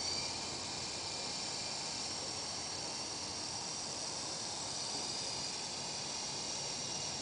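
Electric coaxial RC helicopter running steadily in flight: a constant hissing whir from its rotors with a high motor whine that shifts slightly in pitch.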